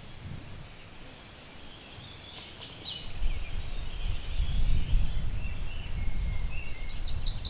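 Several birds chirping and singing with short trills. About three seconds in, a low rumble comes in and becomes the loudest sound.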